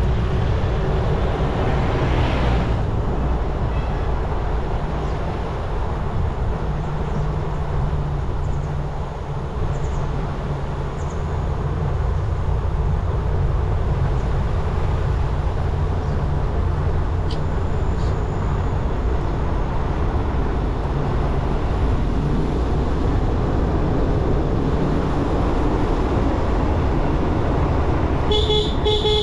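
Motorcycle engine running steadily under wind and road noise, heard from on board while riding. Near the end a vehicle horn gives a few short beeps.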